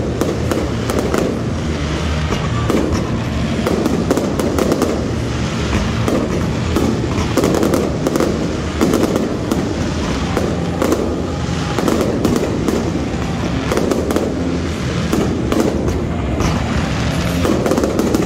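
Fireworks display with aerial shells bursting overhead: a near-continuous stream of sharp bangs and pops in quick succession.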